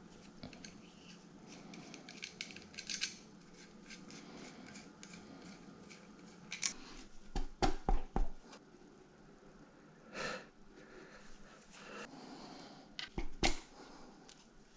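Hand work on a Toyota 22R engine during reassembly: scattered clicks and knocks of tools and metal parts being handled, with a quick run of louder knocks about seven to eight seconds in and a brief rustle near ten seconds.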